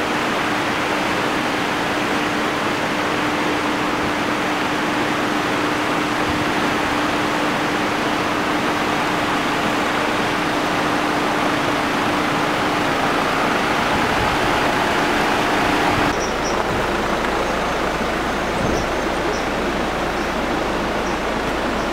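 Off-road vehicle engine running with a steady hum under loud, rough noise; about sixteen seconds in the sound cuts abruptly to a thinner steady noise.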